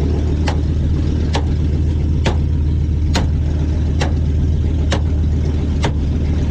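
2006 Ford Focus engine idling steadily, with a sharp click repeating evenly a little under once a second.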